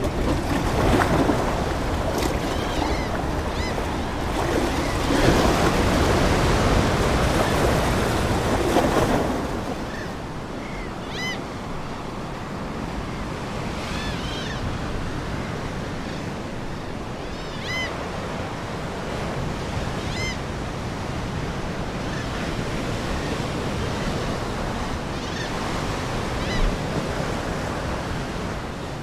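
Ocean waves washing onto the shore: a louder surge for about the first nine seconds, then a softer steady wash. Seagulls call now and then through it.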